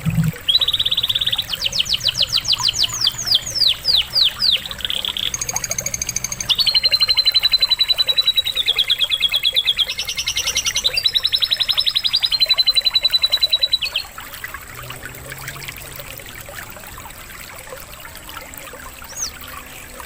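Domestic canary singing a long song filled with lovebird-style notes: rapid trills, fast sweeping notes and long held whistles. Running water trickles underneath. The song stops about 14 seconds in, leaving the water and one short chirp near the end.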